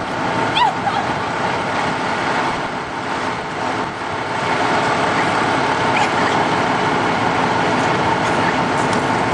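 Steady running of idling truck engines, with a brief short cry about half a second in.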